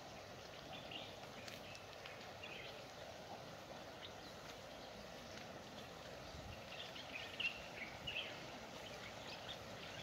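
Small birds chirping in short scattered calls, more often near the end, over a faint steady outdoor rush.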